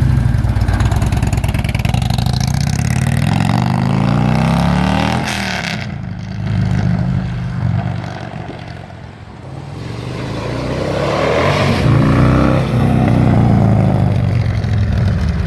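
Harley-Davidson Tri Glide trike's upgraded 110-cubic-inch V-twin with Woods cam and S&S dual exhaust, under way and revving, pitch climbing as it accelerates. It fades about halfway through, then comes back louder and its pitch falls off near the end.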